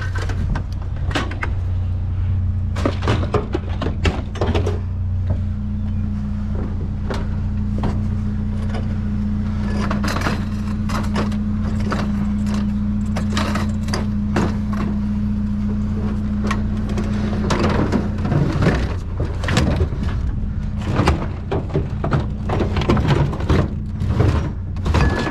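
Vehicle engine running with a steady low hum, under frequent knocks, thumps and clattering.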